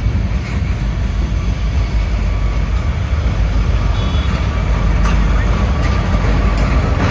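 Norfolk Southern train rolling past: a loud, steady low rumble with faint clicks over it.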